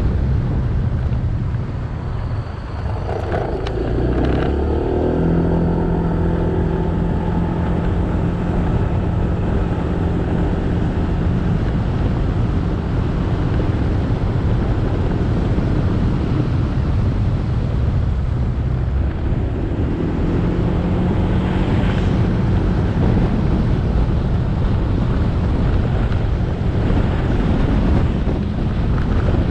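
Motorbike engine running under way, with heavy wind noise on the camera microphone. The engine note comes up about three seconds in and holds steady, sinks under the wind around the middle, then comes up again past twenty seconds.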